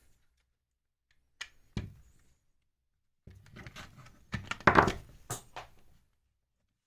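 Parts of a disassembled cordless impact driver being handled: two sharp clicks, then a run of clattering knocks as the plastic shell halves and small internal parts are moved about.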